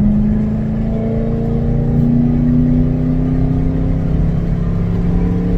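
2006 Ford Mustang GT's 4.6-litre V8 heard from inside the cabin while driving, a steady drone that climbs a little in pitch over the first couple of seconds and then holds.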